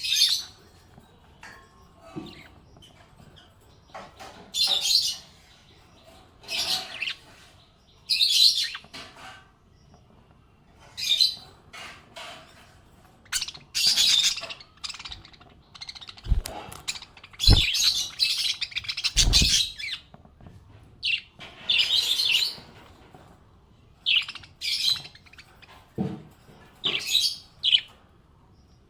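Small pet parrots chirping and twittering in short, irregular bursts every second or two. A few low thumps come around the middle.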